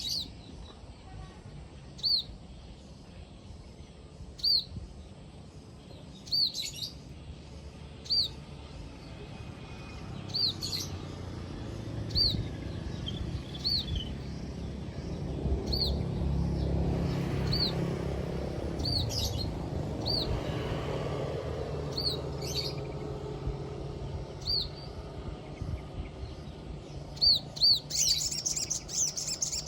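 Sogon bird lure call: short, high, arched chirps repeated about every two seconds, with several in quick succession near the end. A low rumble swells underneath in the middle.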